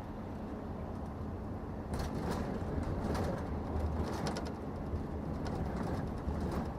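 Scania truck cruising, heard from inside the cab: a steady low diesel engine hum with road noise. A run of light clicks and knocks comes through the middle.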